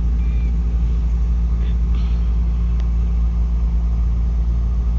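Steady low rumble of a car driving along a highway, engine and road noise heard from inside the cabin.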